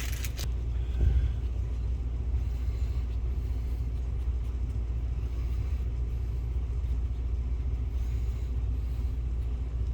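A steady low rumble, with a brief bump about a second in.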